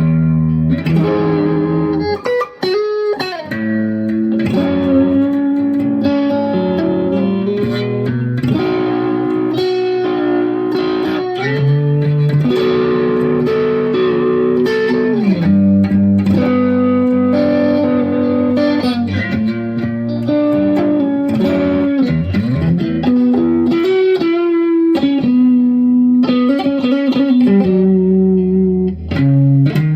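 Squier Affinity Stratocaster electric guitar with single-coil pickups played as a lead line of held notes, several of them bent up or down in pitch.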